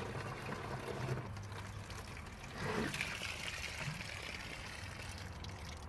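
Water trickling as a container is filled.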